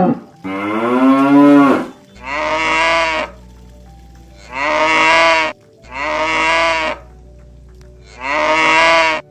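Oxen mooing: five long moos of about a second each, each rising then falling in pitch, one after another with short gaps.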